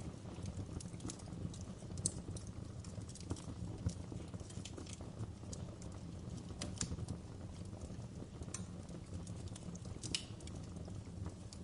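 Wood log fire crackling in a fireplace: irregular sharp pops and snaps, a few louder ones, over a steady low rumble of the flames.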